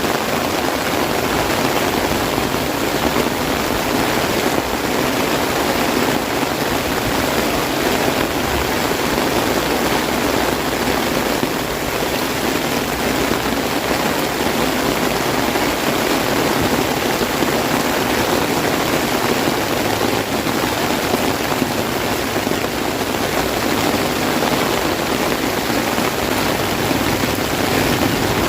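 Heavy rain drumming steadily on an umbrella, a dense, even patter.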